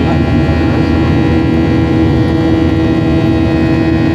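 Airliner cabin noise in flight: the engines and airflow make a loud, steady drone, with several steady tones held over it.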